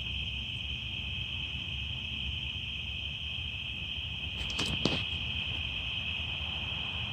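Crickets chirring in a steady, unbroken high-pitched chorus, with a few sharp clicks just before the five-second mark.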